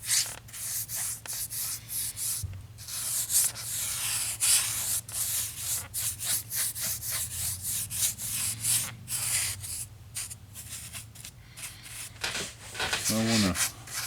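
Rapid, irregular scratchy scrubbing strokes of a brush working a brown paint wash into a scale model's concrete floor.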